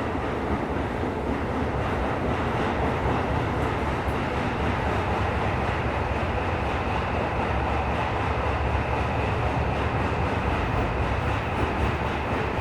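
Tokyo Metro 17000 series subway train running through a tunnel, heard from inside the car: a steady rumble of wheels on rail and running noise.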